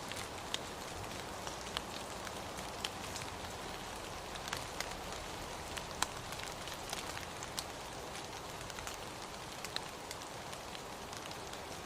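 Steady rain falling, an even hiss with individual drops ticking sharply at irregular moments.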